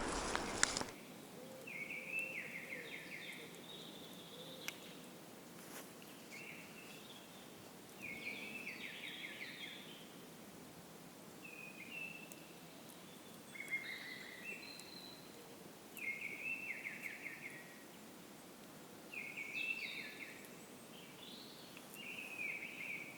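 A songbird singing short phrases of quick falling notes, about every two to three seconds, over a faint steady hiss. A loud rush of wind noise on the microphone cuts off abruptly about a second in.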